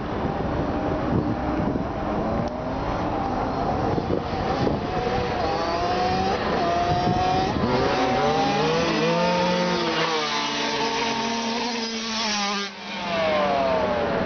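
Kawasaki KX60 two-stroke youth motocross bike engine revving hard, its pitch climbing and dropping repeatedly as it shifts through the gears at speed. About two thirds through the sound drops out briefly as the throttle is chopped, then it rises again.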